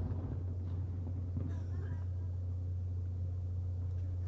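A lull between fireworks shell bursts. The echo of the preceding burst dies away in the first moment, then a steady low hum continues with faint crowd voices.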